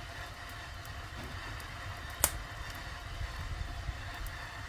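Wood fire burning in a kitchen firebox under a cauldron of soybean mash being boiled for tofu, with steam hissing from the pot and light crackling. One sharp pop about two seconds in.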